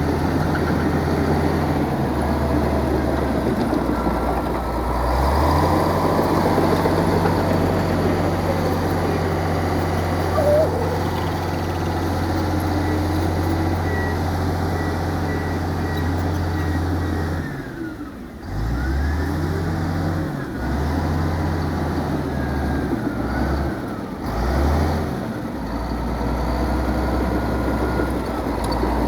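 Diesel engine of heavy earthmoving machinery running steadily. About two-thirds of the way through, its revs drop away and then rise and fall several times before it settles back to a steady run.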